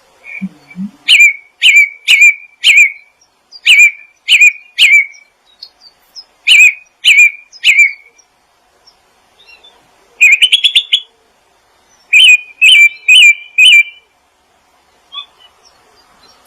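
A small songbird calling in groups of three or four sharp, loud chirps, about two a second, with a fast rattling trill about ten seconds in.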